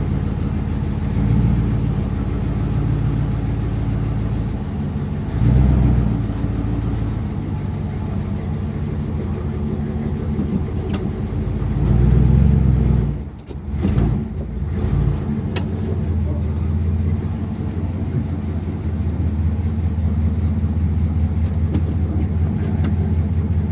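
1957 Ford Thunderbird's Y-block V8 running on a two-barrel carburettor setup and fresh spark plugs, a steady drone that swells briefly a few times as the revs rise. It drops away sharply for a moment a little past the middle, then picks up again.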